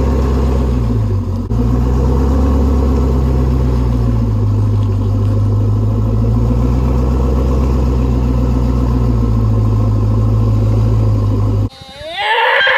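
Pickup truck engine running steadily with a deep, loud rumble. Its pitch dips briefly about a second in, and the sound cuts off suddenly near the end. A short, high, wavering sound follows.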